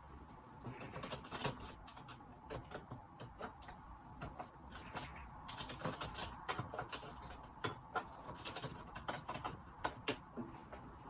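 Typing on a computer keyboard: a quick, irregular run of key clicks, picked up by a phone's microphone.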